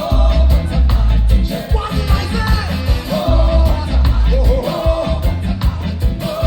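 Live reggae band with a man singing over heavy bass and a steady beat.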